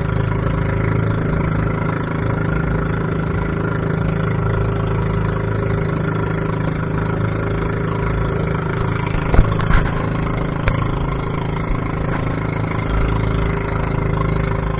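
Small fishing boat's engine running steadily under way. Two sharp knocks come about halfway through.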